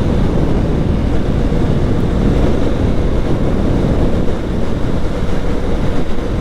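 Strong wind buffeting the microphone of a GoPro on a moving motorcycle, a steady low rumble with the bike's running noise underneath.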